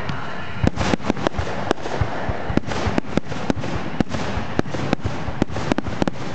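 Fireworks display: a dense, irregular barrage of sharp bangs, several a second, over a steady crackling hiss.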